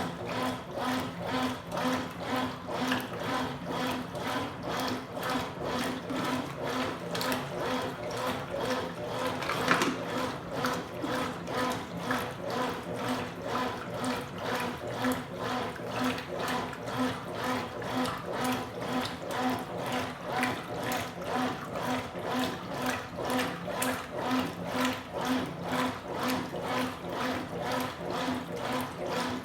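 Consul Supercargo 8 kg top-loading washing machine agitating a load of towels: the motor and drive pulse rhythmically, about twice a second, while water and towels slosh in the tub. About ten seconds in there is one louder splash or knock.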